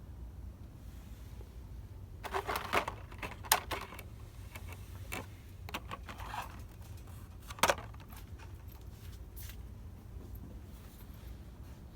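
Scattered clicks and rustles of store merchandise and packaging being handled, in a cluster in the first few seconds and a sharper single click a little past the middle, over a steady low hum.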